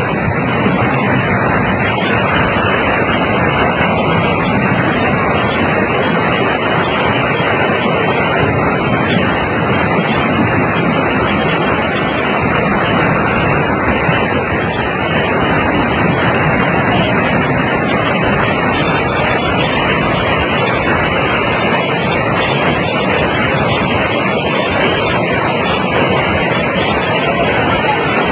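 Floodwater from heavy rain rushing in a torrent: a loud, steady rush of water with no breaks.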